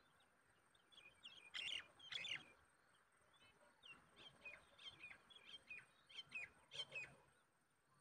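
A series of short, high bird chirps, each sliding down in pitch. Two stronger ones come about a second and a half in, then a run of quicker chirps from about four to seven seconds in.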